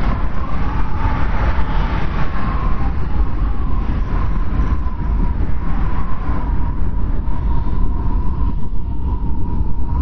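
Strong wind in a snowstorm blowing steadily, with a deep rumble and a high whistle that wavers slightly in pitch.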